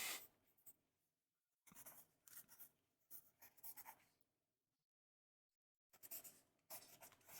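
Close-miked writing on paper: short scratchy strokes in two spells, the first from about two to four seconds in and the second starting about six seconds in, with a pause of about two seconds between.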